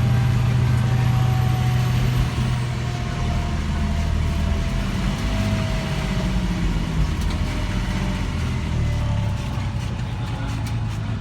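Fire engine's diesel engine and road noise heard from inside the cab while driving: a steady low drone whose pitch shifts about three seconds in. A faint tone slowly falls in pitch throughout.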